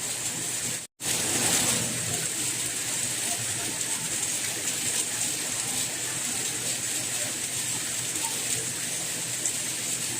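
Steady rain hiss. About a second in it cuts out to silence for an instant, then comes back slightly louder before settling.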